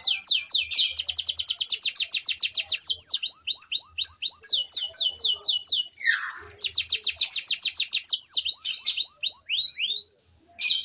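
Domestic canary singing long, rapid trills of repeated, quickly falling high notes, about ten a second, phrase after phrase, with a brief pause near the end before a short final burst.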